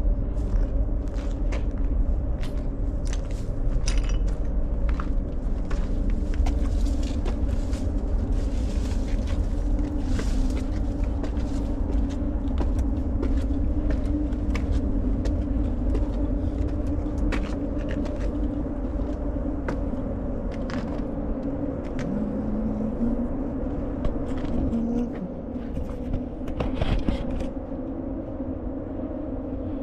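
Motorcycle engine running steadily at low revs, with scattered clicks and knocks over it; the engine's pitch shifts briefly a little past two-thirds of the way through.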